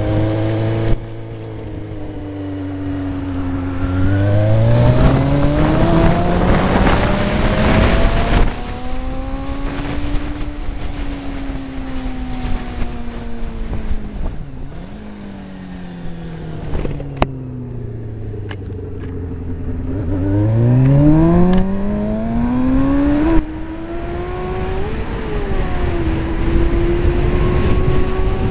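Honda Jade 250's inline-four engine heard from inside the rider's helmet. It idles for a few seconds, then revs up as the bike pulls away. It eases off and drops back to a low steady pitch around the middle, then revs up steeply again with a gear change. Wind noise rushes over the microphone, heaviest while accelerating early on.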